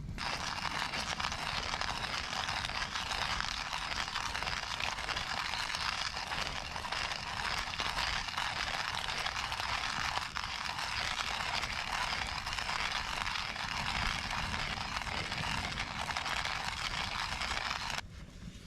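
Campfire wood burning and crackling steadily with dense fine pops and snaps; it cuts off abruptly near the end.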